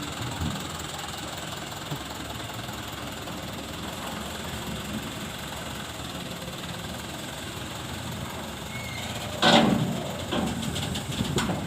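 Dump truck engine idling steadily. About nine and a half seconds in comes a sudden loud burst, with a smaller one near the end.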